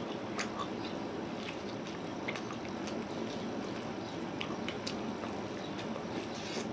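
A man biting and chewing a curried chicken leg: wet, squishy mouth sounds with many small scattered clicks, over a steady low hiss.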